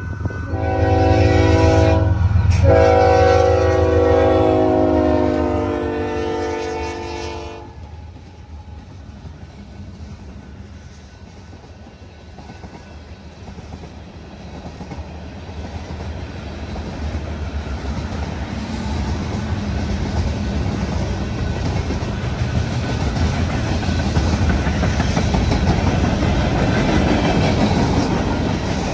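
Union Pacific freight train's diesel locomotive sounding its multi-chime air horn over a heavy low engine rumble: a blast, a brief break, then a long blast that stops about eight seconds in. The freight cars then roll past with a clickety-clack of wheels on rail joints that grows steadily louder.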